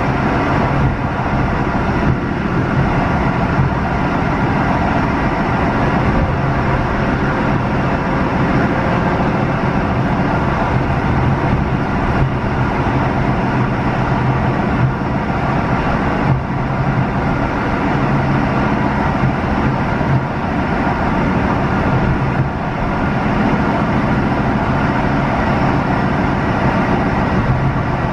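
Steady running noise of a Newag 14WE electric multiple unit at speed, heard from inside the passenger car: an even rumble with a steady low hum under it.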